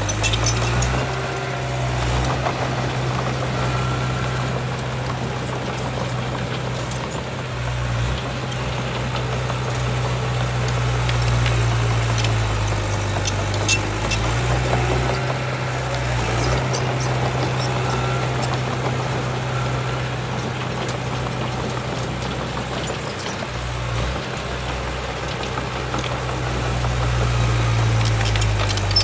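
Heavy diesel engine of earthmoving machinery running steadily. Its note rises and eases back a few times.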